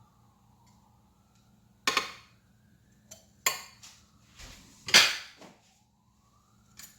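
Kitchenware clattering: sharp knocks with a short ring about two, three and a half and five seconds in, the last the loudest, with a few lighter clicks between.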